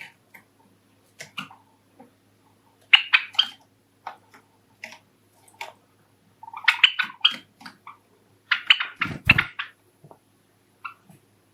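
Pet Java sparrows giving short chirps in quick clusters, with pecking sounds between them and a low thump about nine seconds in.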